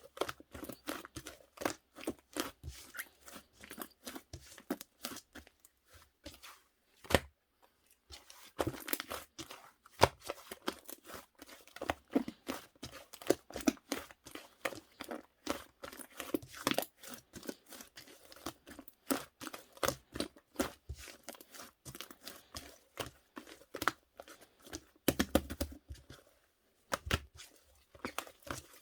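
Cloud slime being stretched, squeezed and pulled apart by hand, giving a dense, irregular crackling and tearing, with brief pauses about 7 seconds in and near the end.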